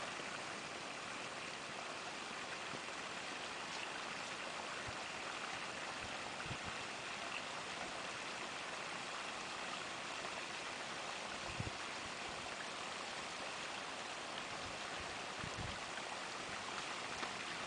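Sump pump running, with a steady rush of water flowing through 1.5-inch PVC pipe.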